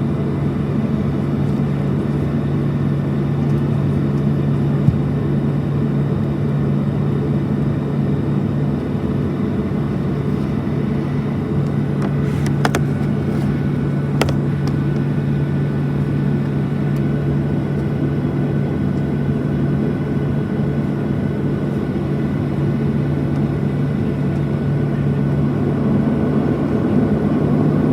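Boeing 737-700's CFM56-7B jet engines heard from inside the passenger cabin as a loud, steady drone with a low hum. Two faint clicks come a little before and after the middle.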